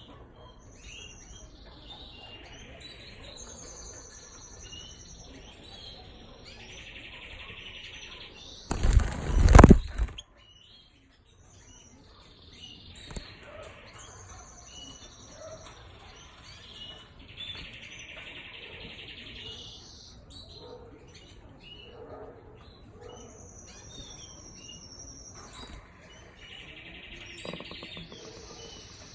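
Portuguese harlequin canaries singing: long warbling phrases with rolling trills and high whistled notes, repeated several times. A loud rustling burst lasting about a second and a half comes about nine seconds in.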